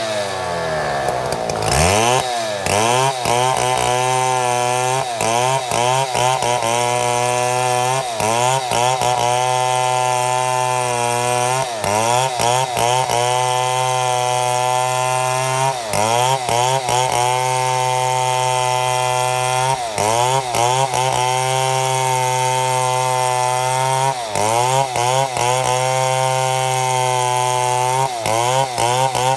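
Chainsaw ripping a mahogany log lengthwise in a chainsaw mill. The engine revs up at the start, then runs at a steady high pitch under cutting load, dipping briefly and recovering every few seconds.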